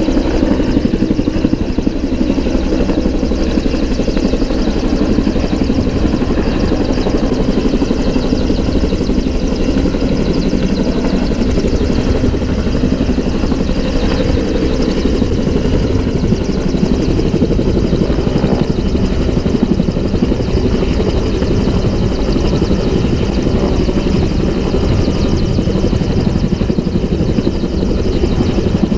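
Bell 222 twin-engine helicopter hovering: a steady, loud, rapid blade chop with turbine noise.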